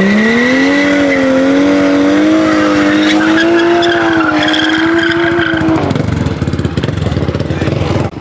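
Car engine revving hard: the pitch climbs and is held high with a slight waver for about six seconds, then drops away into rougher noise.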